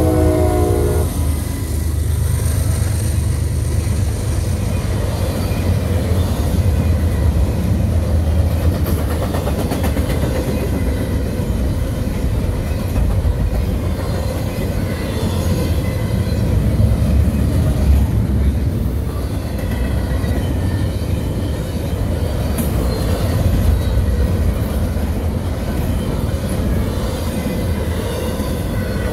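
Double-stack container freight train rolling past at close range: a steady noise of steel wheels on rail, strongest in the low range. The locomotive horn cuts off about a second in.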